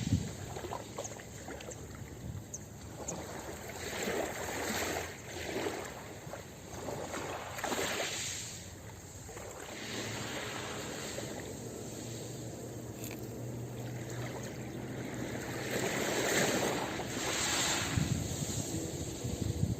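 Ocean waves washing onto a beach: a steady rush of surf that swells every few seconds as waves break.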